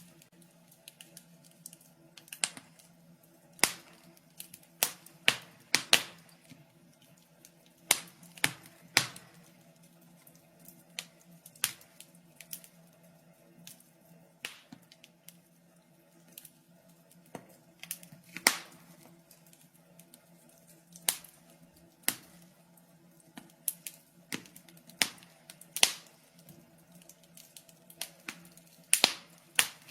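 Wood fire crackling in a fireplace: irregular sharp pops and snaps, some in quick clusters, others a few seconds apart.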